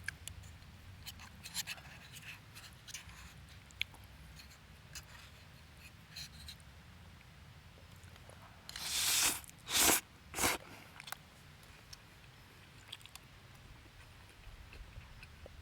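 Light clicks and taps of cooking or eating utensils, with three short, louder rustling bursts about nine to ten and a half seconds in.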